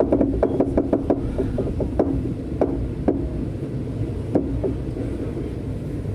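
Passenger train carriage rolling slowly with a low rumble, a quick flurry of knocks and clicks in the first second, then single knocks every second or so, typical of wheels passing over points.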